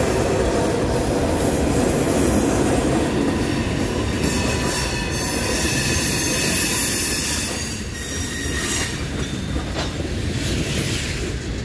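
Loaded-length string of steel coal hopper cars rolling past with a steady rumble of wheels on rail. High-pitched wheel squeal comes in a few seconds in, then the rumble eases a little as the last cars pass.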